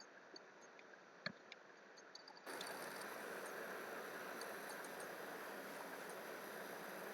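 Faint steady hiss of room tone and microphone noise, dipping quieter for the first two and a half seconds, with a few faint clicks, the clearest about a second in.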